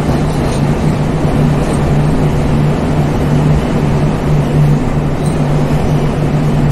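Passenger train running, heard from on board: a loud, steady rumbling rush with a constant low hum under it.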